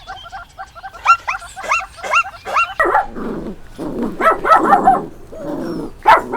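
Dogs barking: a quick run of high yips, about three a second, gives way about three seconds in to deeper, rougher barks in bunches.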